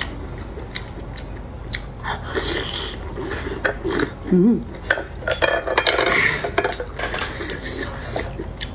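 Shells and utensils clinking, clattering and scraping against dishes while conch is handled: a run of sharp, uneven clicks, with a short vocal sound about halfway through.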